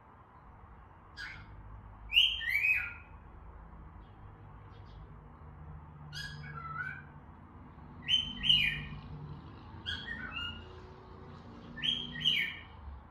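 Cockatiels whistling: six short phrases, each a few falling notes, spaced a second or more apart.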